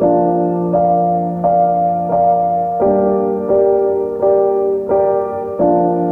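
Background piano music: chords struck at an even pace, a new chord about every 0.7 seconds.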